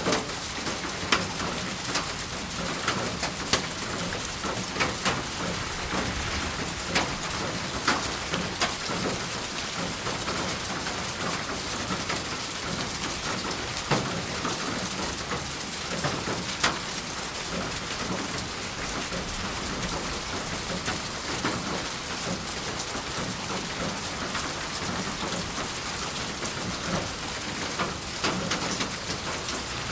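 Steady rain falling, with close raindrops ticking on a surface every second or so against an even hiss of rainfall.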